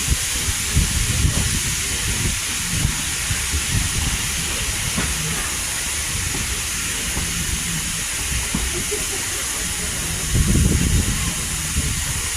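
Passenger train running along the track, heard from aboard: a steady low rumble with frequent short knocks under a constant hiss, and a louder surge of rumble near the end.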